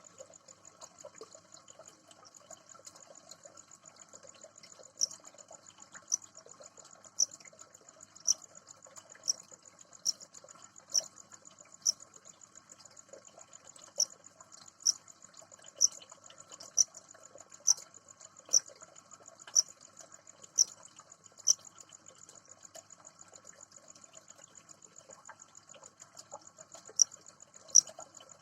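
A frog calling with short, sharp, high-pitched notes, about one a second in a run of some seventeen calls, pausing, then calling twice more near the end. Behind it runs a continuous high, finely pulsed trilling chorus.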